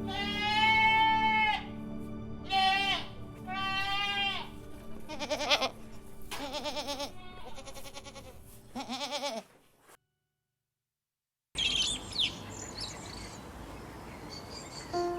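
A farm animal bleating: three drawn-out calls, then a run of shorter wavering bleats, over soft background music. The sound cuts out at about ten seconds in, and faint high chirps follow.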